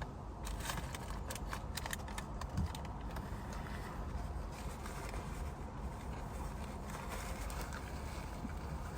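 Breeze rumbling on the microphone through an open car door and window, with a run of light crackling clicks in the first three seconds.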